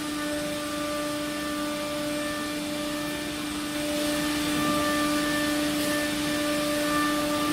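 Steady electric motor hum from a CNC router's equipment, with a strong fixed tone over a noise haze. It gets a little louder about halfway through.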